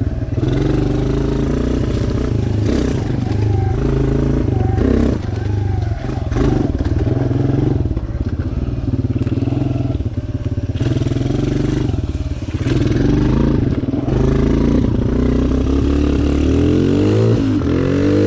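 Single-cylinder four-stroke engine of a Suzuki DR-Z125 dirt bike big-bored to 150 cc, running while being ridden. The throttle changes all along, and near the end the revs rise in several quick climbs as the bike accelerates.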